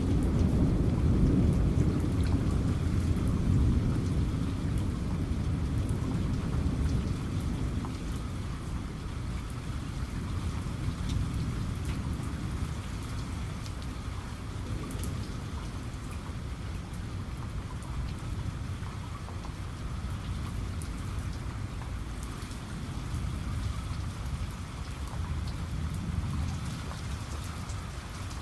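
Steady rain falling, with scattered drops ticking. A low rumble of thunder fades away over the first several seconds, and a softer rumble swells again near the end.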